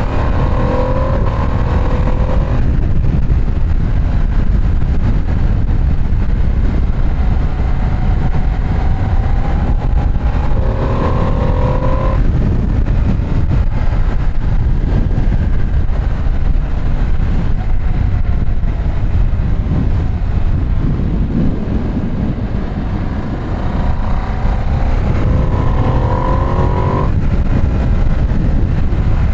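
Ducati Streetfighter V2 S L-twin engine under way, pulling up through the revs three times, each rising engine note breaking off abruptly at an upshift. Steady wind and road rumble lie under it.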